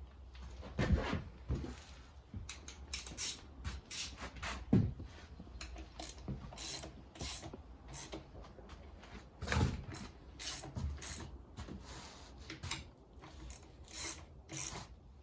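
Irregular clicks, scrapes and light knocks of hand tools and metal parts being handled during engine work.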